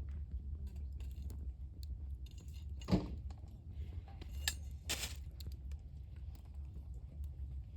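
Wood campfire crackling, with scattered small snaps over a steady low rumble and a few louder pops: a sharp one about three seconds in and two more around four and a half and five seconds.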